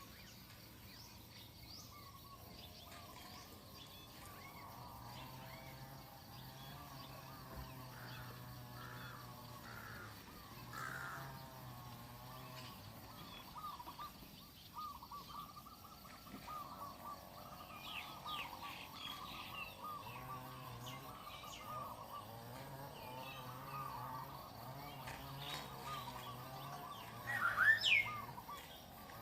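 Birds chirping and calling in short repeated notes, with one louder call near the end.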